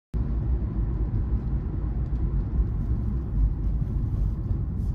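Steady low rumble of a car driving: engine and road noise heard inside the cabin.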